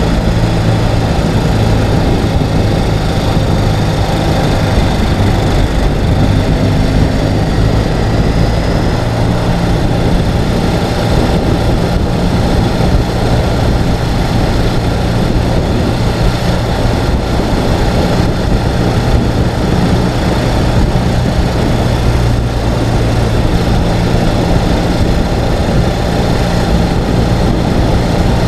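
Ural sidecar motorcycle's air-cooled boxer-twin engine running steadily under way, its pitch shifting only a little.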